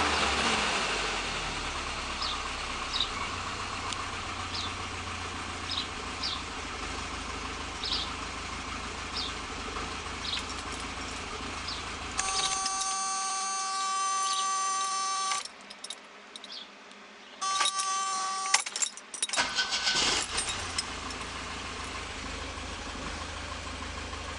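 1973 Opel GT's four-cylinder engine idling with faint ticks about once a second. About halfway through the engine sound stops, and a steady buzzer tone sounds for about three seconds, then again briefly. Clicks follow, and the engine starts and settles back to idle.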